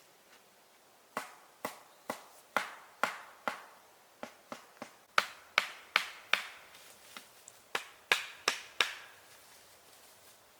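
Chopping wood with a hand tool: a series of sharp strikes, about two a second, in two runs with a brief break between them.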